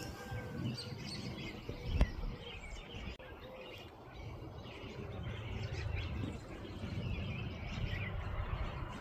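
Birds chirping and calling, many short chirps repeating throughout, over a low rumble. There is one sharp click about two seconds in.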